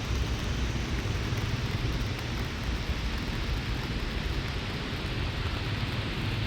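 Steady rain hiss with a low rumble underneath, even throughout.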